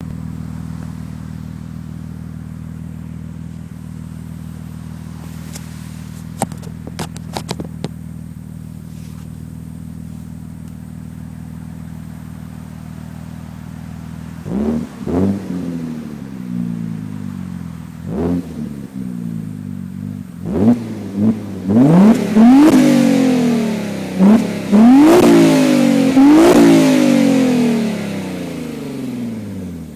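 Modified Audi S4 B5's 2.7-litre twin-turbo V6, fitted with RS4 turbochargers and a dual exhaust, idling steadily, then blipped in a string of sharp free revs that rise and fall, coming faster and higher near the end before it settles back to idle. A few sharp clicks sound during the idle.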